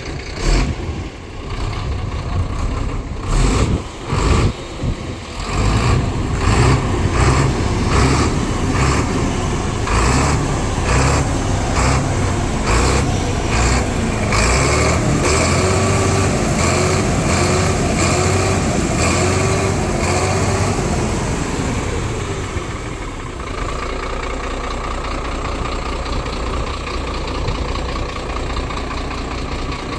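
Howo 371 hp 6x4 tractor truck's diesel engine running. It pulses about once a second through the first half, then gives a wavering note in the middle, and settles to a steady run near the end.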